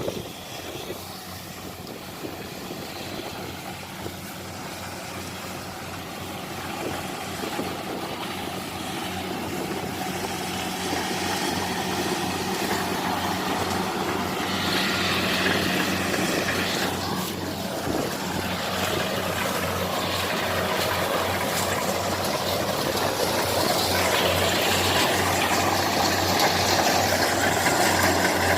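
Kubota DC-70 combine harvester's diesel engine running with a steady low hum, growing gradually louder.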